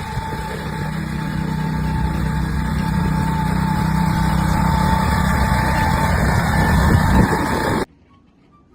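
A motor or engine running steadily, slowly getting a little louder. It cuts off suddenly near the end.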